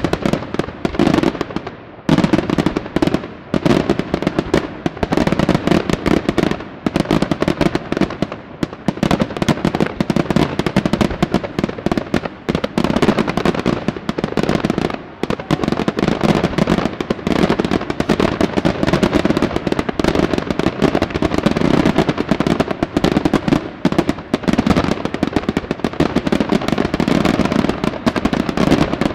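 Daytime fireworks barrage: a dense, unbroken run of rapid bangs and crackling from many bursting shells, dipping briefly a few times.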